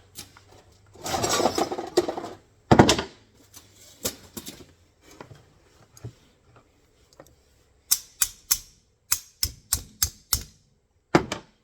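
Steel jaws of an MB-550 foothold trap being banged and worked out of the trap frame, metal striking metal. A scraping rasp comes early, then one heavy knock, then a quick run of about eight sharp taps near the end.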